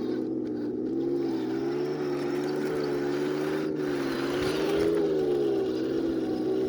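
RC M46 Pershing model tank driving, with a steady engine-like drone whose pitch rises and falls slightly as the throttle changes.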